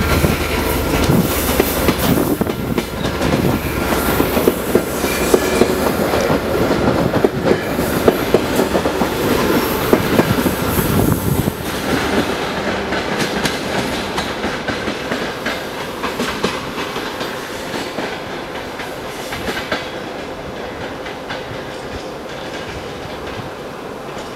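Passenger train coaches rolling past a departing diesel-hauled passenger train, their wheels clicking over the rail joints. The clatter is loud for the first dozen seconds, then fades steadily as the train draws away.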